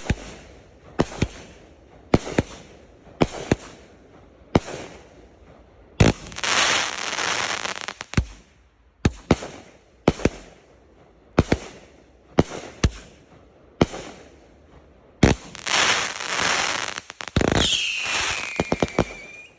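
A 500-gram consumer firework cake, Winda Fireworks' Notorious, firing. Sharp shots come about once a second, each followed by a short fading tail. About 6 s in, and again from about 15 s, come long stretches of dense crackling noise, with a brief falling whistle near the end; the sound stops abruptly.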